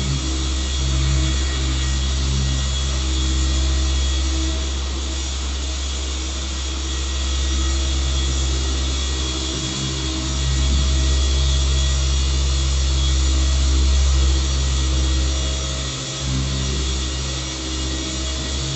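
Electric car polisher running steadily, its pad buffing over the car's paint, with brief dips in its sound about ten and sixteen seconds in.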